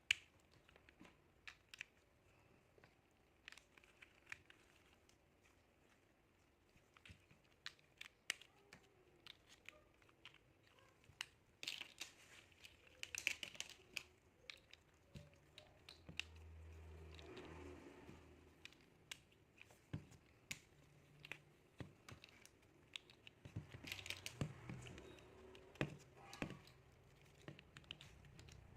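Small plastic building bricks being handled and pressed together: scattered light clicks and taps, with a couple of stretches of crinkling rustle.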